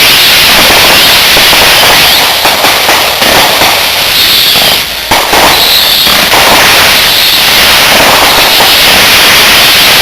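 Fireworks going off in a loud, dense, continuous crackle and pop, with a couple of short high whistles and a brief lull about five seconds in.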